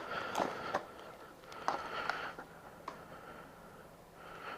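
Faint handling noise with a few light clicks, as a small plastic bike accessory is handled.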